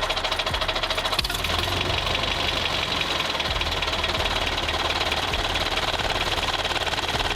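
A small DC motor in a homemade model running steadily with a fast, even rattle of its gears. There is a brief click about a second in.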